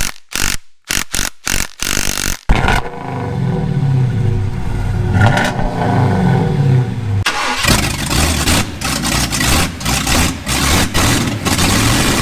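An engine cranking with a series of short strokes, catching about two and a half seconds in, then running with its pitch rising and falling as it revs before settling into a rougher, steady run.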